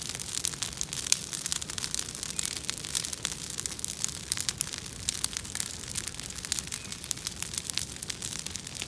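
Bonfire of invasive weeds burning, crackling with many quick, irregular sharp pops over a steady low rush.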